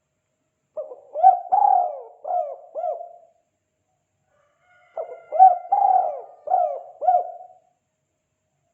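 Spotted dove cooing a 'kuk 2' call: two phrases of about five coos each, a couple of seconds apart.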